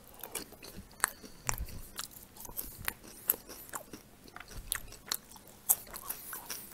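A man chewing food noisily with his mouth open, close to the microphone: irregular wet smacking clicks and small crunches.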